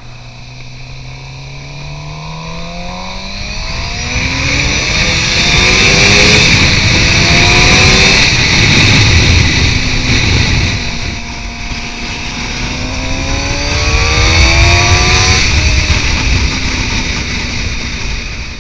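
Suzuki GSX-R750 inline-four engine through a Two Brothers M2 exhaust, accelerating with its pitch climbing. It builds in two long surges, loudest about six to nine seconds in and again around fifteen seconds.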